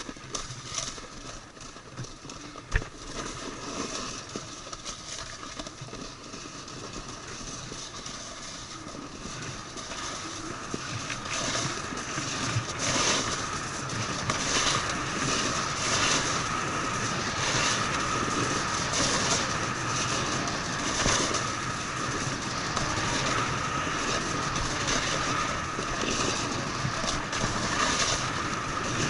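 Snowboard running over snow: a continuous rumbling scrape with irregular rattles from the board chattering over uneven snow, growing louder over the first dozen seconds and then staying loud.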